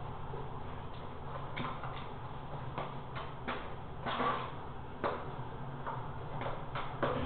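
Irregular short scrapes and knocks, about one every half second to second, with the strongest about four seconds in and just before the end, over a steady low hum.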